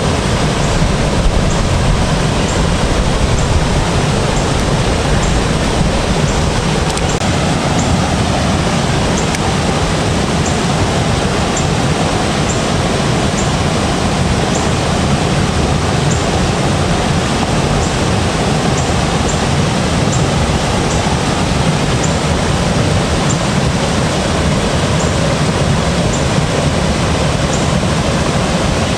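Steady, loud rushing noise with no breaks or changes.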